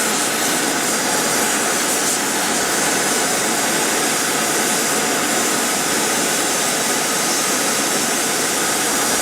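Gas torch burner running with a steady hiss, heating the lead-melting crucible and mould.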